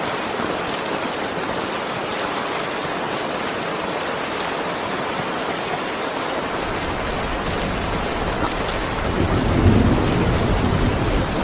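Heavy rain pouring down steadily. A low rumble of thunder swells from about halfway through, loudest near the end.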